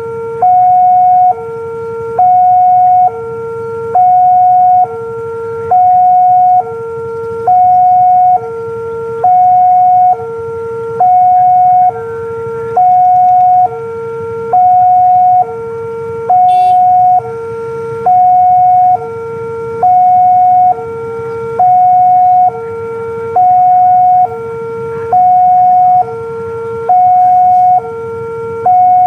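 Railway level-crossing warning alarm sounding continuously: an electronic two-tone signal swapping between a lower and a higher tone just under once a second, warning that a train is approaching.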